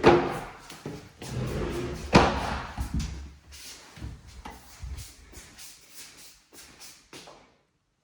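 Knocks and thuds in an empty room, the loudest right at the start and another about two seconds in, with smaller clicks between, stopping dead near the end.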